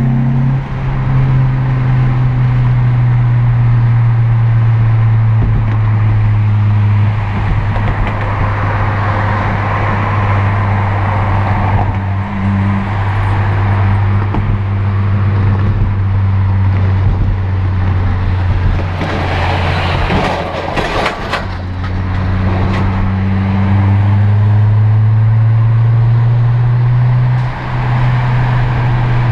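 2008 Acura TSX's 2.4-litre K-series four-cylinder heard from inside the cabin, droning steadily over tyre and road noise at highway speed. A few sharp knocks come about two-thirds of the way through. Near the end the engine note climbs in pitch, then dips briefly.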